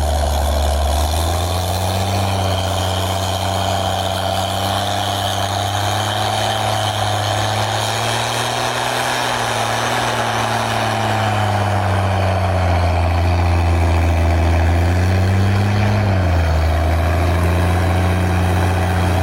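Vehicle engine running steadily at low revs. Its pitch creeps up a little and eases back about halfway through, then rises and drops briefly near the end.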